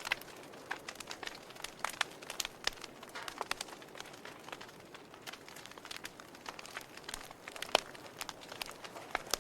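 Wood fire crackling: irregular sharp pops and snaps over a soft hiss, with one louder pop about three-quarters of the way through.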